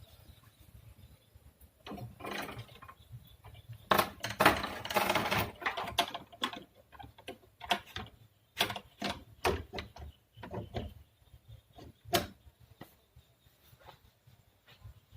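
Irregular clattering, knocking and rubbing, like objects being handled and knocked about, densest about four to six seconds in and sparser after.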